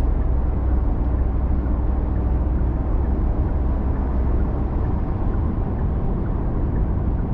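Steady low road and tyre rumble inside the cabin of a Genesis G80 sedan cruising at expressway speed.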